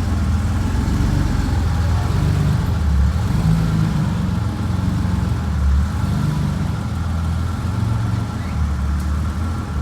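Car engine idling with a low rumble that swells and eases.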